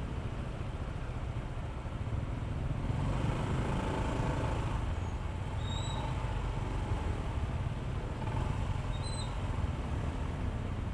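Honda ADV160 scooter's single-cylinder engine running while riding along the road, heard as a steady low rumble with road noise that grows louder about three seconds in.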